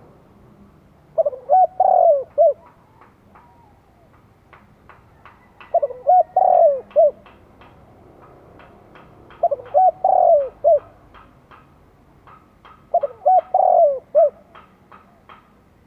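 Spotted dove cooing: four phrases about four seconds apart, each a short run of a few coos, the song of a decoy dove calling to draw in wild doves. Between the phrases, a faint quick series of high clicks.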